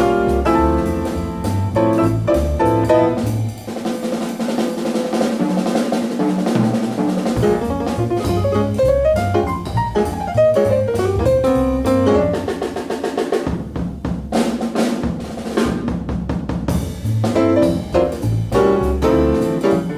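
Jazz trio playing, with a drum kit's snare and bass drum prominent alongside pitched instruments. The low notes drop out twice for a few seconds, about four seconds in and again past the middle, while the drums carry on.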